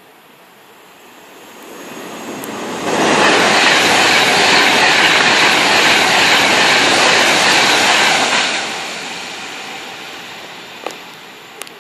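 Train passing on the main line at speed: a rush of wheel and air noise swells over a couple of seconds, stays loud for about five seconds, then fades away. A few sharp clicks come near the end.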